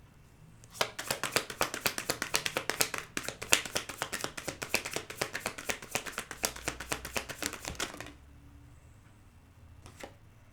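A deck of tarot cards being hand-shuffled: a fast run of crisp card slaps, about seven a second, that stops about eight seconds in, followed by a couple of single card clicks near the end.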